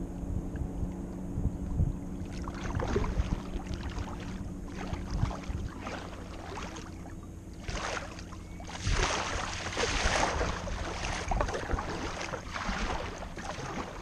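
Kayak paddle strokes, the blades dipping and splashing in the lake water in a repeating rhythm, heavier in the second half. Under them a steady low hum, which fades out about halfway through.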